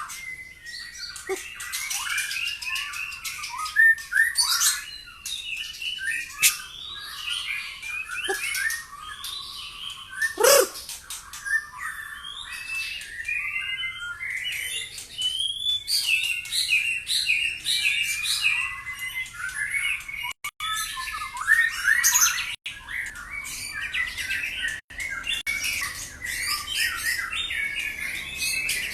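White-rumped shama (murai batu) singing a long, continuous, varied song of quick chirps, trills and whistles, with mimicked phrases (isian) worked in and a few sharp, loud notes.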